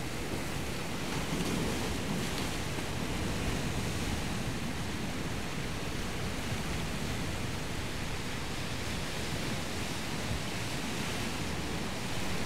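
Steady wash of surf and waves, mixed with wind on the microphone, swelling slightly about two seconds in.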